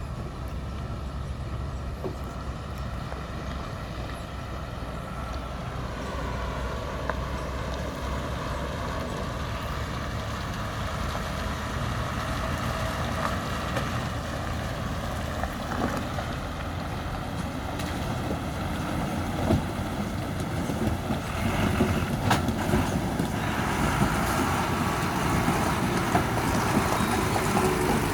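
Truck engine running steadily, growing louder toward the end, with a few sharp knocks and rattles.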